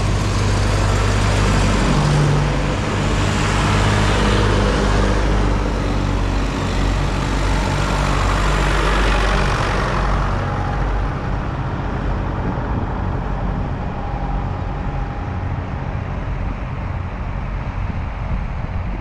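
Diesel tractor engines running on the road, with tyre and road noise, as tractors pass. The sound is loudest in the first half, with two swells, and eases after about ten seconds.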